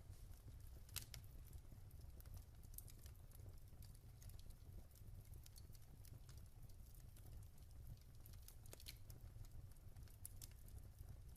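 Wood fire crackling: irregular sharp pops and ticks from burning logs over a faint low rumble, with the biggest pop about a second in.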